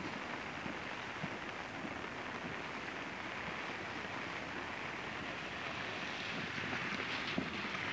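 Steady rainfall on wet paved ground: an even, continuous hiss.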